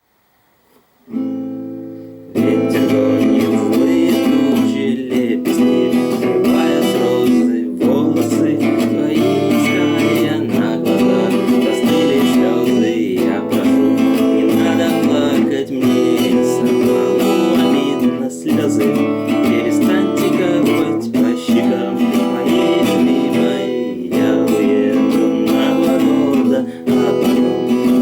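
Acoustic guitar strumming chords in a steady rhythm. It starts about a second in with a single held chord, then runs on in continuous strummed accompaniment.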